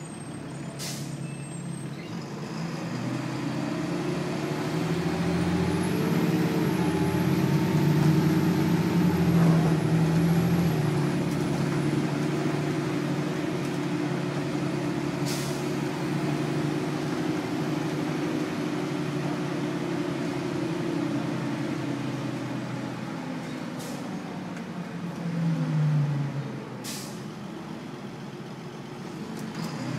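2000 Nova Bus LFS's Detroit Diesel Series 40 inline-six diesel heard from inside the bus: it pulls up in pitch a few seconds in, runs steadily under load, then eases off, with a short swell near the end. A few short sharp sounds break in now and then.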